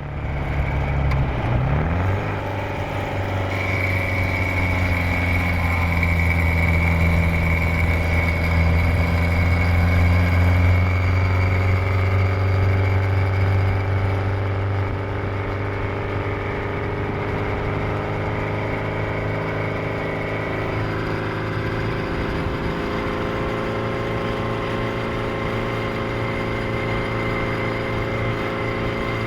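Supercharged 1328 cc XPAG four-cylinder engine of a 1938 MG TA Special race car running under way through its Brooklands exhaust. Its pitch dips briefly about two seconds in, then holds steady, and it settles lower and quieter about halfway through.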